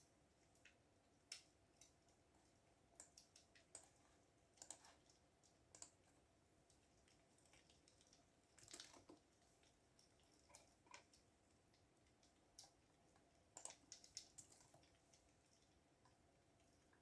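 Faint computer keyboard typing: irregular key clicks in short runs with pauses between them, over a faint steady hum.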